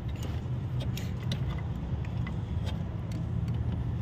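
Light metallic clicks and taps of a pry bar working a stuck high-pressure fuel injector nozzle loose in a Range Rover 5.0 engine, over a steady low mechanical hum.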